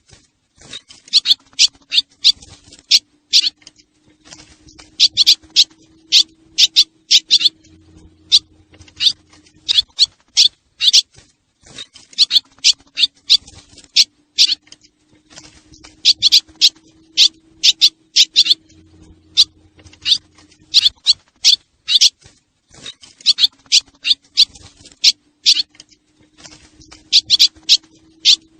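Swallow lure recording: clusters of rapid, sharp, high twittering chirps from swallows, with short gaps between clusters. It runs over a faint low hum, and the same pattern repeats about every 11 seconds as a loop.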